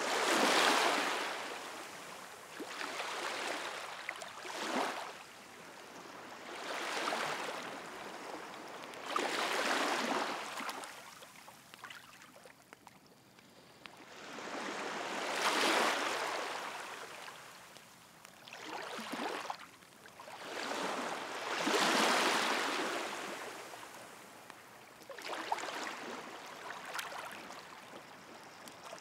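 Sea waves washing onto the shore, each surge of hiss swelling and falling away every few seconds, with a wood campfire crackling faintly beneath.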